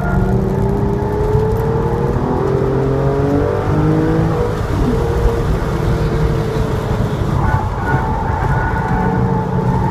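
Porsche 911 Targa's flat-six engine at full throttle, heard from inside the car, revving up to about 6,000 rpm with a rising pitch. About halfway through an upshift drops the pitch, and the engine runs lower as the car slows for the next turn.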